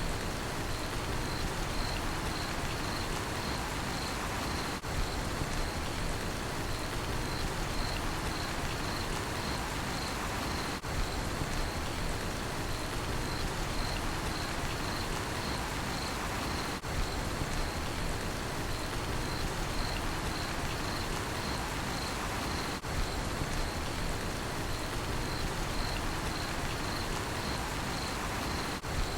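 Steady rain falling, with a cricket chirping in an even pulsing rhythm over it. The sound dips briefly about every six seconds.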